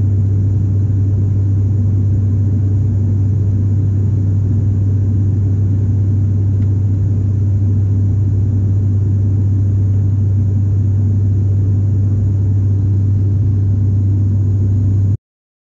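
Steady, loud low drone of an airliner's engines heard inside the passenger cabin, with a strong low hum under a rumbling noise. It cuts off abruptly near the end.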